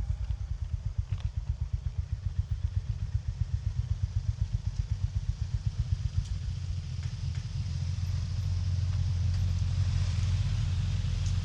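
Honda GB350S's air-cooled single-cylinder engine thumping at low revs, each firing pulse distinct. About six seconds in the revs climb and the pulses blend into a louder, steadier drone as the bike accelerates, with wind and road noise rising alongside.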